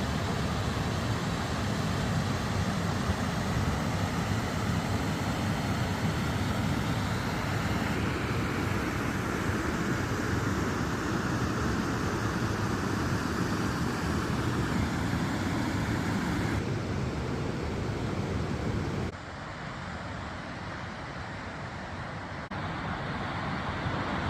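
Steady rush of falling water from a waterfall, dropping in level and losing some of its low end about nineteen seconds in.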